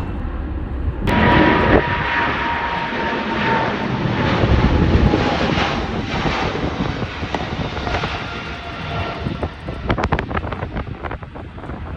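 Jet airliner passing close by: a loud, steady engine roar with a faint whine that slowly falls in pitch as it goes past. Wind buffets the microphone near the end.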